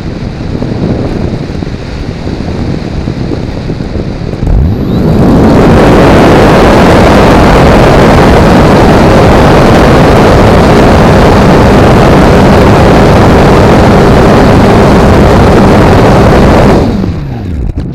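Electric motor and propeller of an RC model plane heard from an onboard camera, powering up about five seconds in and running at full power, overloading the microphone with its noise and the rushing wind. Near the end the throttle is cut and the motor winds down, leaving only wind noise.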